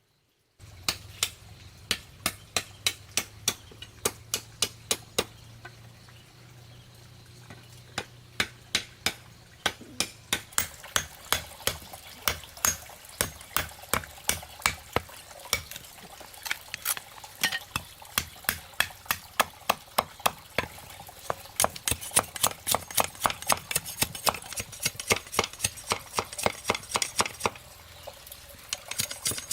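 Rapid, regular knocks, about three to four sharp strokes a second, like repeated chopping or striking, with a faint steady background.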